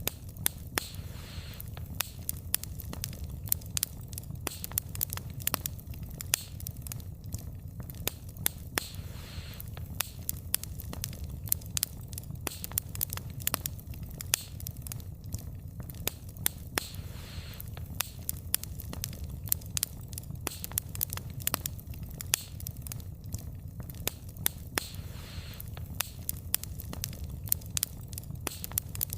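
Wood fire burning, the logs crackling and popping in frequent sharp, irregular snaps over a steady low rumble of the flames.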